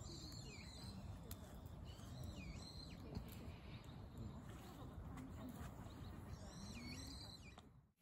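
Faint outdoor ambience: a few short chirping bird calls over the light crackle of a small wood campfire. The sound fades out near the end.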